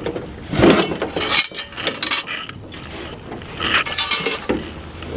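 Irregular mechanical clicking and rattling in several short bursts over a low steady hum.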